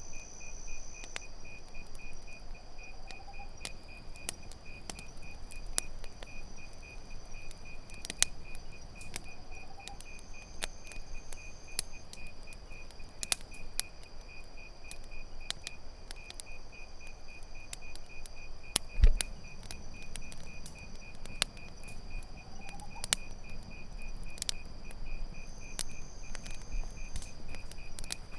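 Campfire crackling with scattered sharp pops, one louder pop about two-thirds of the way through, over crickets chirping in a steady, fast-pulsing trill.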